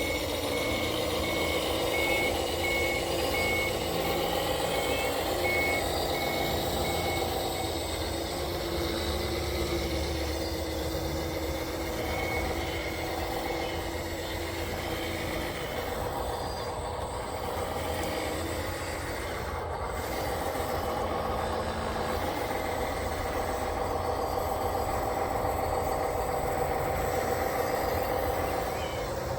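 Reversing alarm beeping in an even series of high beeps over a steady machine running sound. The beeping stops after several seconds and returns briefly near the middle.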